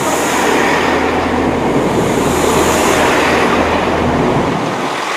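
Class 166 diesel multiple unit moving along the platform close by: the rush of wheels on rail over the low hum of its diesel engines, which fades about four and a half seconds in.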